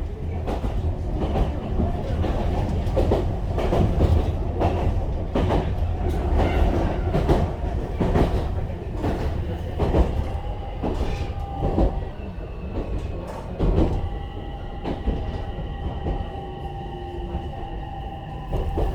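Ichibata Electric Railway train running, heard from inside the carriage: a low rumble with repeated knocks of the wheels over the rails. About halfway through it gets quieter and a steady high whine joins in.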